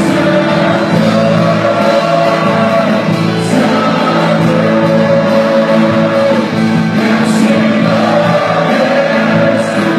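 Live worship music with a band and singing voices, the notes held in long sustained lines.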